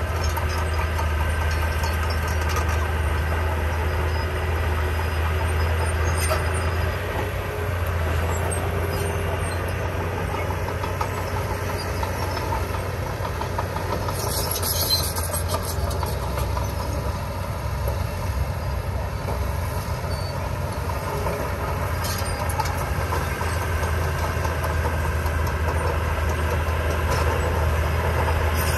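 Diesel engine of heavy earthmoving machinery running steadily with a deep hum, with a brief clatter about halfway through.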